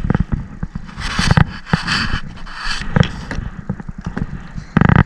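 Close-up handling noise in a kayak while a small fish is brought in: a run of knocks, clicks and scrapes, with a loud, rapid rattling burst near the end.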